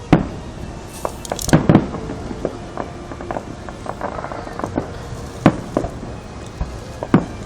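Aerial fireworks bursting: several sharp bangs, two of them close together about a second and a half in, with smaller pops and crackles between.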